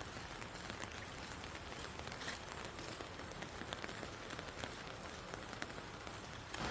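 Rain falling: a steady light hiss scattered with the ticks of single drops.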